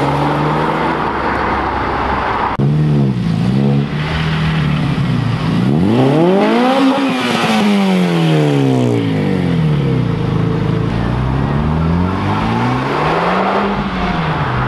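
Modified cars accelerating away one after another, their engines revving up and dropping back. The longest rev climbs and falls over about four seconds in the middle.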